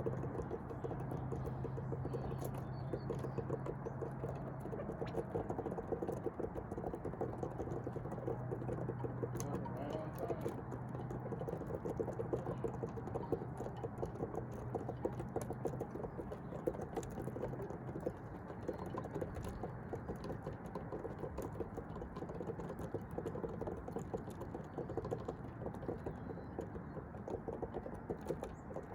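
Dense, irregular small clicks and pattering, like many tiny taps, over a low steady hum that stops about two-thirds of the way through.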